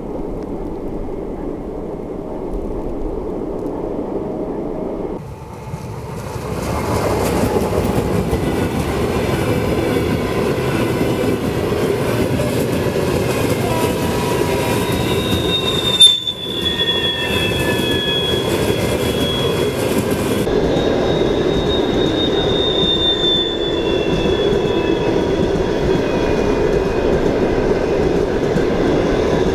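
A train passing close by, its steel wheels rumbling on the rails, with thin high wheel squeals that slowly fall in pitch from about halfway through. A single sharp crack comes about halfway in.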